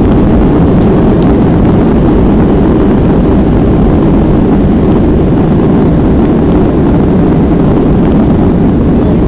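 Boeing 737-800 jet engines (CFM56-7B turbofans) running at high power for takeoff: a loud, steady, low-heavy noise that holds even throughout.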